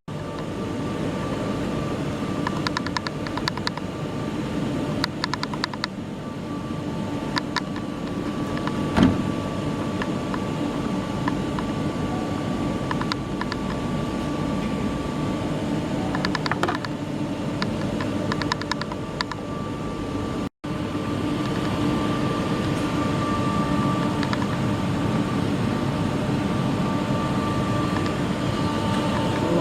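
Steady mechanical hum with a faint steady whine, broken now and then by short runs of quick light clicks; it drops out for an instant about two-thirds of the way through.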